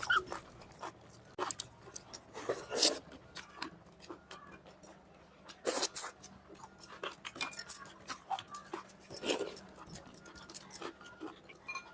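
Mouth sounds of eating mutton curry and rice: irregular chewing and lip-smacking in short bursts.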